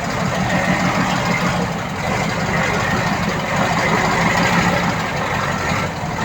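Heavy diesel earthmoving machinery engine running steadily.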